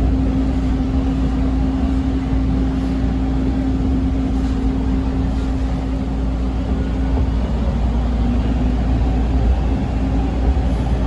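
Steady rumble and hum inside a Toronto TTC T1 subway car as the train slows to a stop, the hum wavering briefly about eight seconds in.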